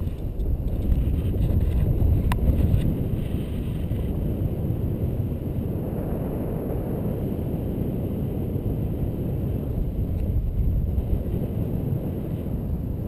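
Steady drone inside the cabin of an An-2 biplane in flight: its nine-cylinder radial engine running together with the rush of airflow, with a sharp click right at the start and another about two seconds in.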